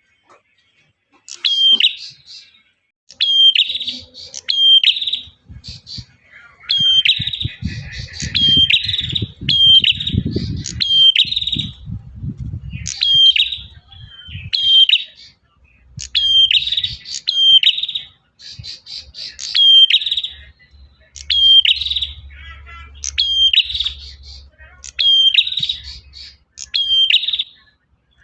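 Male prinia singing: quick, loud, repeated chirping phrases, each note with a sharp downward flick, delivered in bursts with short pauses between them. A low rumble sits underneath for a few seconds partway through.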